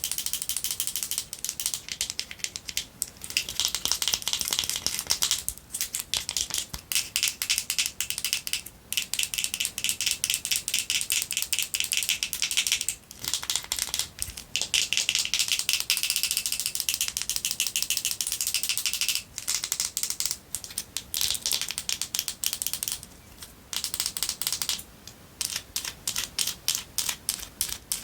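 Long fingernails rapidly tapping and scratching a pink lip mask's packaging: a dense, fast rattle of sharp clicks, broken by several short pauses.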